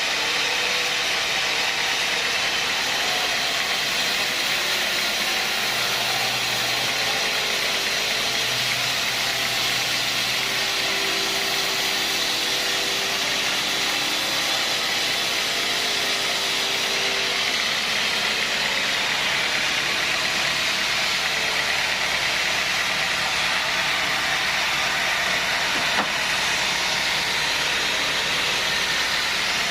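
Sawmill machinery running steadily: a constant mechanical hiss and hum with no distinct cuts or knocks.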